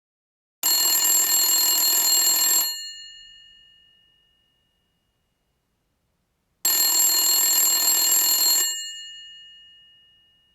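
Old telephone's mechanical bell ringing twice. Each ring lasts about two seconds and then fades away, with about four seconds of silence before the next.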